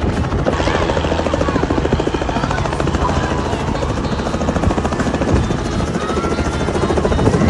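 Helicopter main rotor chopping steadily and loudly overhead, a fast even beat of blade pulses over engine and rotor noise.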